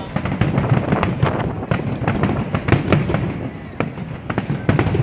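Fireworks display going off: a dense, irregular run of sharp bangs and crackles, several a second, without a pause.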